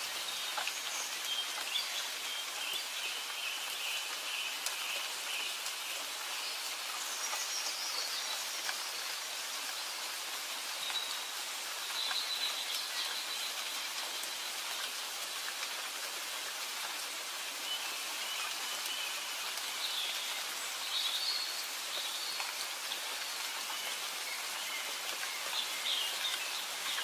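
Steady rainfall, an even hiss of drops on surfaces, with faint bird chirps scattered over it.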